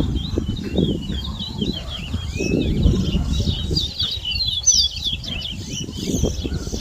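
Caged towa-towa (chestnut-bellied seed finch) singing a fast, continuous run of high, quick chirping notes, busiest around the middle, over a low, uneven background rumble.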